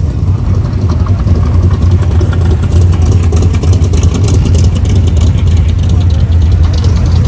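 Loud car engine running steadily, with rapid crackling pops over it from about two and a half seconds in.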